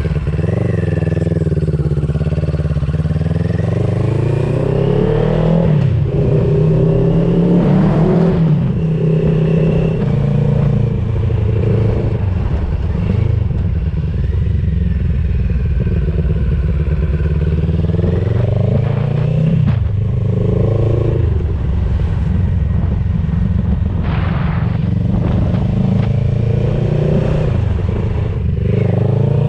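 CFMOTO 700CL-X Sport's parallel-twin engine running through an aftermarket IXRACE DC1 carbon exhaust while riding. The revs climb and fall back again and again as the bike accelerates and eases off.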